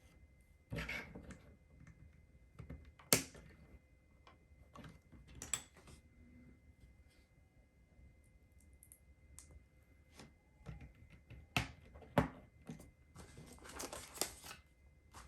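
Plastic LEGO bricks and pieces being handled and snapped together: scattered light clicks and taps, a few sharper clacks, and a run of quick clicking near the end.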